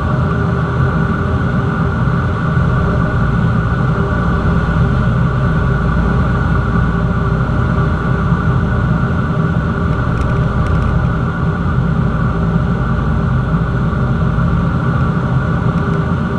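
Cessna 172's piston engine and propeller running with a steady, unbroken drone.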